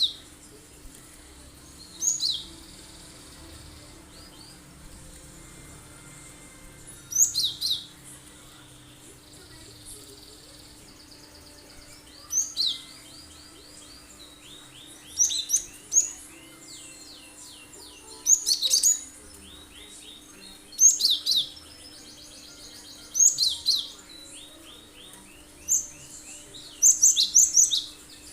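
Cinereous tit (gelatik batu) singing: short bursts of sharp, steeply falling high whistled notes every few seconds, some followed by quick runs of repeated lower notes. A faint steady hum lies underneath.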